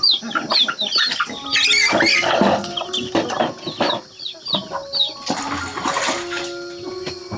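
Chickens clucking, with rapid, short, falling high peeps and two brief rustling bursts, over soft background music.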